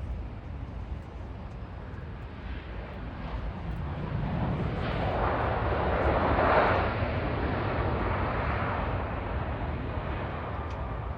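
Jet airliner passing the airport, its engine roar swelling to a peak about halfway through and then fading away.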